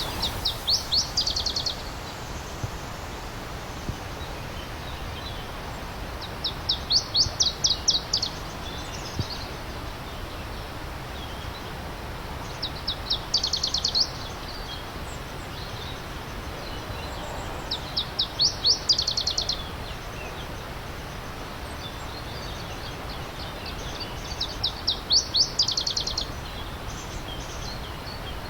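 A small songbird sings a short phrase of quick, high notes, repeated five times about every six seconds, over the steady rush of stream water.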